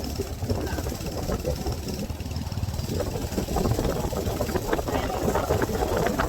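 Motorcycle engine running during a ride: a steady low drone that gets rougher and a little louder about halfway through.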